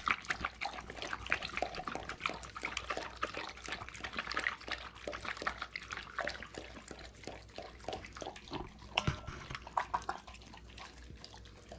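A dog eating steamed salmon head and tail: quick, irregular wet smacking and chewing clicks, with a couple of sharper snaps about nine seconds in.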